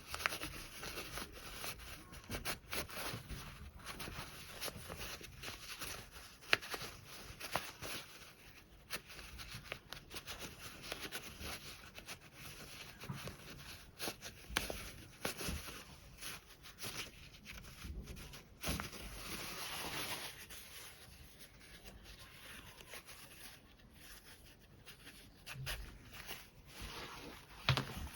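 Hands working with fabric: rustling cloth with many small irregular clicks and taps, and a longer rustle about two-thirds of the way through.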